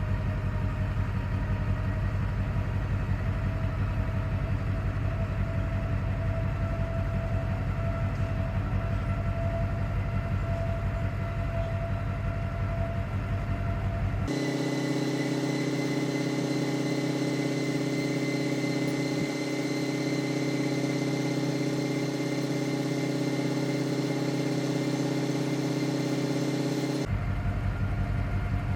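A motor running steadily with a humming, even tone. Its pitch and character change abruptly about fourteen seconds in, and again near the end.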